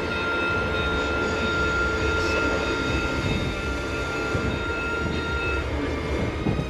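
Steady low rumble of the Pikes Peak cog railway train, with a thin steady high whine that stops near the end.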